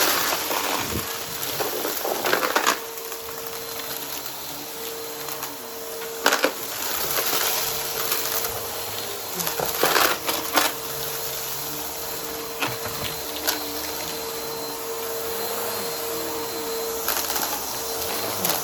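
Vacuum cleaner with a spinning brushroll running steadily with a steady motor whine, broken by sharp crunches and cracks as it picks up crunchy debris.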